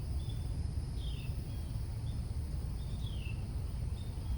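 Outdoor ambience of steady high insect drone with a bird repeating a short whistle followed by a downward-slurred note, over a steady low rumble.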